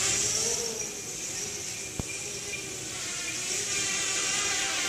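Small 3D-printed quadcopter's electric motors and propellers whining in flight, the pitch rising and falling gently as the throttle changes, over a high hiss. A single sharp click about two seconds in.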